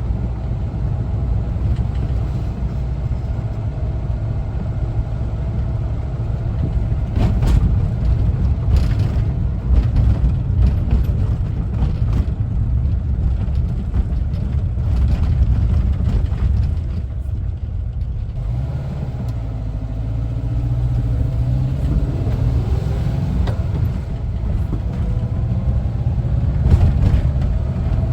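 1974 Volkswagen Westfalia camper bus driving, its air-cooled Type 4 flat-four engine running with road rumble and a few rattles. About two-thirds of the way through the engine eases off briefly, then rises in pitch as the bus accelerates.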